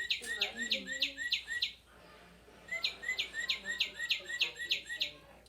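Recorded northern cardinal song played from the sound box of a Wild Republic Audubon plush cardinal: two phrases of quick repeated down-slurred whistles, with a pause of about a second between them.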